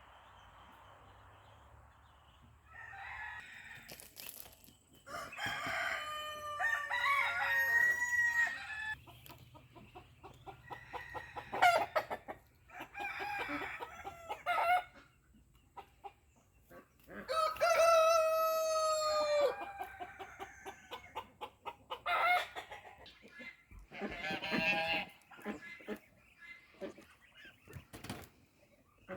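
Domestic chickens: a rooster crows several times, two long crows the loudest, with shorter calls and clucking between.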